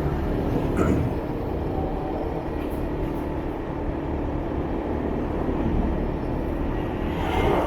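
Motorbike riding in city traffic: a steady engine hum with road and wind noise, and a couple of brief passing sounds from the traffic around it.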